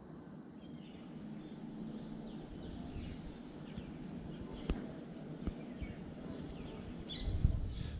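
Outdoor ambience of birds chirping in short calls over a steady low background noise, with a sharp click about halfway through and a few low thumps near the end.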